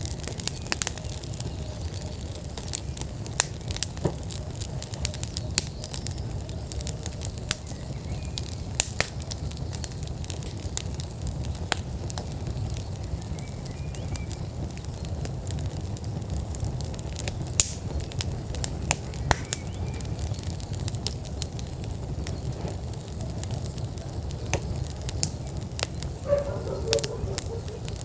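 Wood fire burning steadily in an outdoor fire pit, with a low rumble of flame and frequent sharp crackles and pops from the burning logs. Faint bird chirps come now and then, and there is a short animal call near the end.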